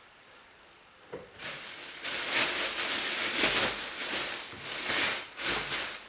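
Loud rustling and crinkling of clothes being handled and packed, close to the microphone. It starts about a second in, comes in several surges and dies away just before the end.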